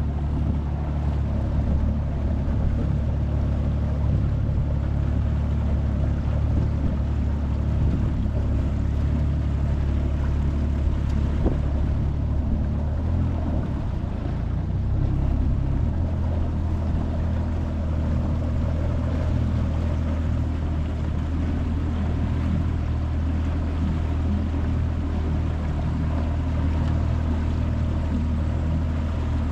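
25 hp Mercury four-stroke outboard motor running steadily with the boat underway, over wind and water noise. The engine note shifts briefly about halfway through, then settles back.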